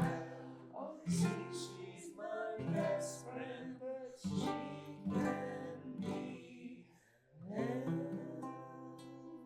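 Acoustic guitar strummed in chords, each ringing on between strokes, with a short pause about seven seconds in.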